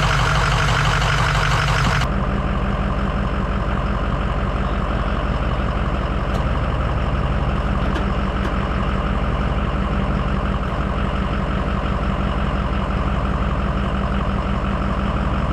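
Ford 6.0 L Power Stroke V8 turbo-diesel running steadily at low speed, its sound changing abruptly about two seconds in.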